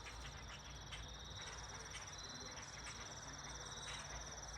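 Evening insect chorus: crickets trilling steadily at a high pitch, with faint short chirps scattered through it.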